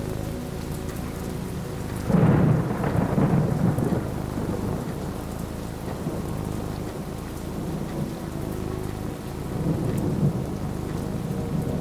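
Steady rain falling through a thunderstorm, with a sudden loud thunderclap about two seconds in that rumbles on for a couple of seconds, and a softer roll of thunder near the end.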